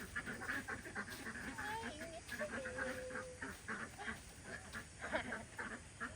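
Ducks quacking in a busy chatter of many short calls.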